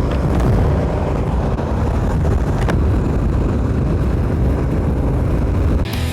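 Steady low rumble of a vehicle under way, with engine and road noise and one click partway through. Music comes in just before the end.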